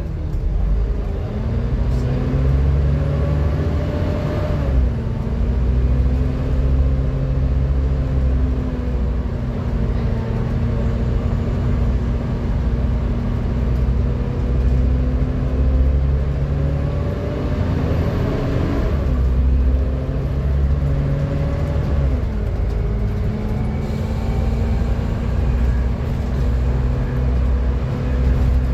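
Volvo B7TL double-decker bus running on the road: a low diesel drone under a loud vacuum-cleaner-like 'hoover' whine. The whine's pitch climbs and falls back twice, about five and nineteen seconds in.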